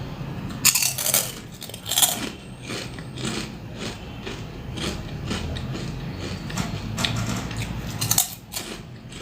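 Crisp fried snacks being bitten and chewed close to the microphone: loud crunches about a second in, again near two seconds and near the end, with softer rhythmic crunching between.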